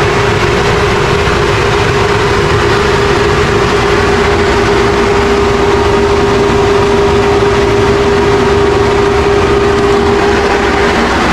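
A motor running steadily: a loud, even drone with a constant hum.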